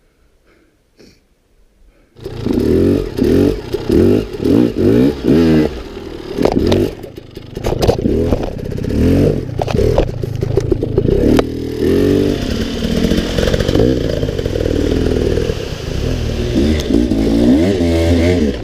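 After about two seconds of near silence, a dirt bike engine comes in loud and revs up and down again and again as the bike climbs rough terrain, with clattering knocks from the bike over rocks and roots.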